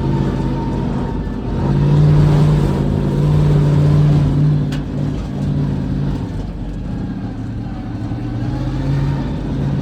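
Monster truck engine running under load, its note rising about two seconds in, easing off through the middle and picking up again near the end.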